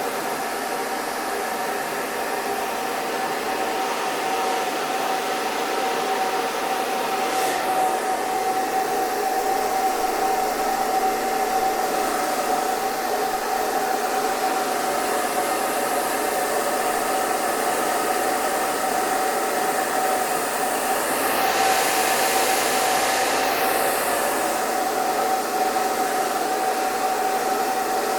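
Hair dryer running steadily: a continuous rush of blown air over a constant motor whine, with the high hiss swelling and fading a few times as the airflow shifts.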